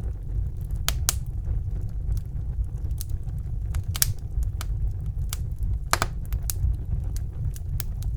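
Wood fire burning in a fireplace: a steady low rumble of the flames with irregular sharp crackles and pops, a few louder snaps about a second, four seconds and six seconds in.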